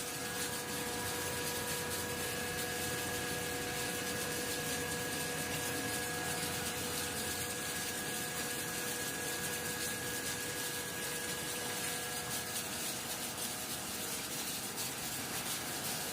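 Flake ice generator running: a steady rushing hiss as the ice blade scrapes the frozen layer off the vertical evaporator wall, with a few steady machine tones that fade out in the later part.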